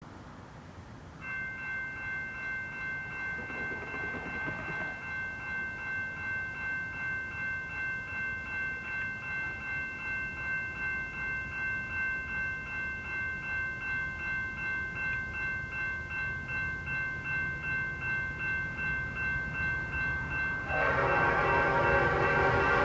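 Leslie RS5T five-chime air horn on an SD60E diesel locomotive, sounded as one long unbroken blast starting about a second in. At first only its higher notes carry; about 21 seconds in it becomes much louder and fuller as the lower chimes come in with the locomotive's approach.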